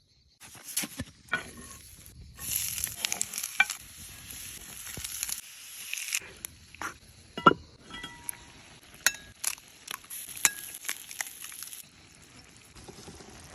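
Food sizzling in a hot pan, the hiss loudest for a few seconds near the start, with scattered sharp clicks and knocks of a utensil stirring it.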